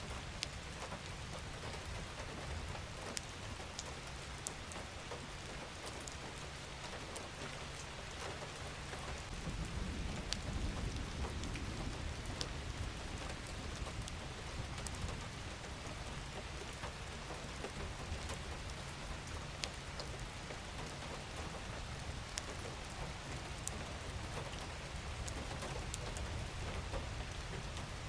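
Steady rain falling, with scattered sharp drop ticks. A low rumble swells about ten seconds in.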